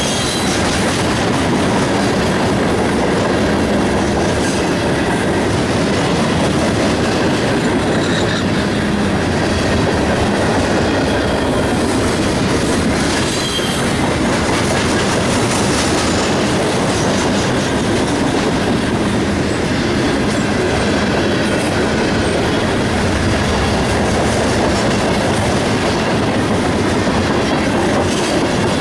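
CSX freight train rolling past, a loud, steady noise of wheels running on the rails.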